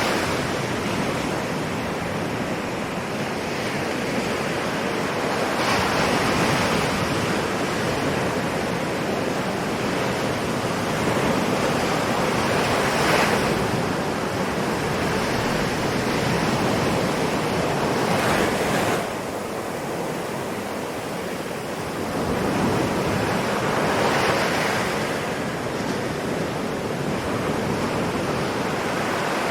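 Ocean waves breaking and washing in: a steady rush of surf with a louder surge every five to seven seconds.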